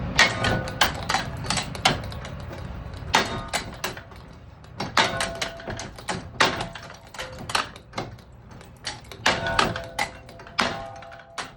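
A ceiling fan being smashed apart: repeated metallic knocks and clanks in irregular clusters, some ringing briefly.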